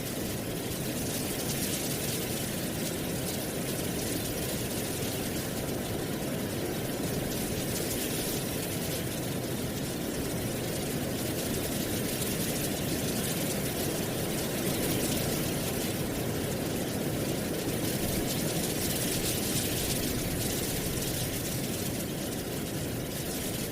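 Wind blowing through dry autumn leaves: a steady rustling hiss that swells a little in the middle.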